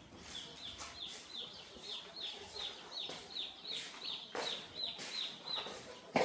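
Three-day-old chicks peeping: a steady run of short, high, falling peeps, about three a second. A few sharp knocks sound among them near the end.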